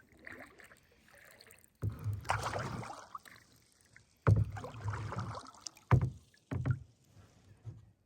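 Kayak paddle strokes splashing and pulling through the water, a few separate strokes a second or two apart.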